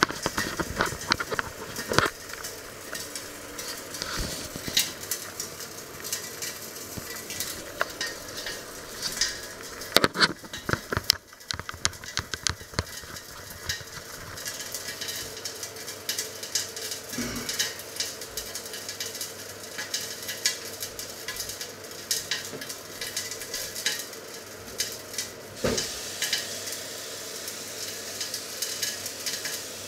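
Chicken sizzling and crackling as it fries in a ridged grill pan, a steady hiss full of small pops. A few louder knocks about ten seconds in.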